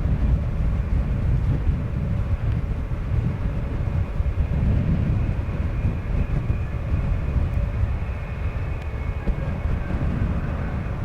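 Jet airliner engine noise: a steady, heavy rumble with a faint high whine, mixed with wind buffeting the microphone.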